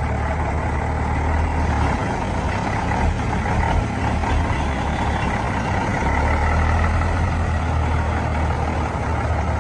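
Heavy truck engine running under load, a steady low drone that eases off after a couple of seconds and builds again about six seconds in, with broad mechanical noise over it.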